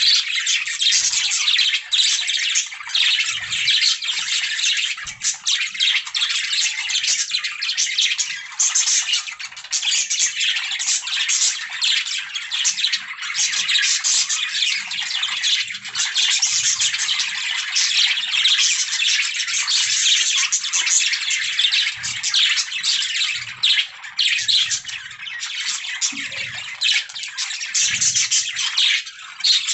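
A flock of budgerigars chirping and warbling, a dense, unbroken chatter of many short overlapping calls.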